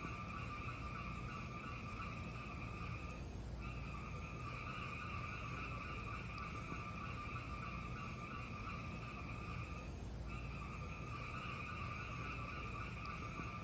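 Fire burning in a fireplace: a steady hiss with a few faint crackles, dipping briefly twice, about 3.5 and 10 seconds in.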